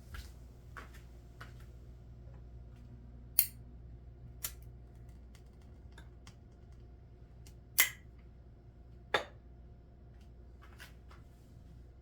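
A few sharp clicks over a low steady hum, the loudest about three seconds in, near eight seconds, and a second later, with fainter ticks between.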